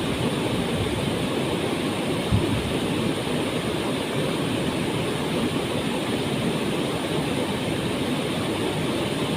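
Waterfall pouring into its pool: a steady, even rush of falling water, heaviest in the low-mid range, with a brief low bump about two seconds in.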